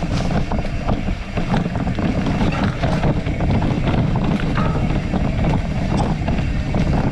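Bicycle ridden over rough, bumpy off-road ground: wind rumbling on the microphone, with scattered knocks and rattles from the bike.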